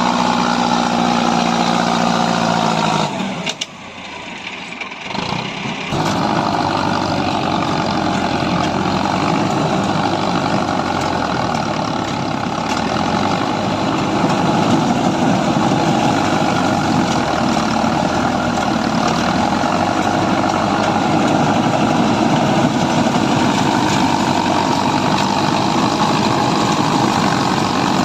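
Farm tractor's diesel engine running steadily. The sound drops away for about three seconds early on, then comes back and runs on evenly.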